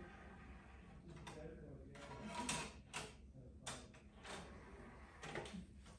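About half a dozen faint, irregular clicks and knocks of handling, as a double-sided DVD is changed over to its second side.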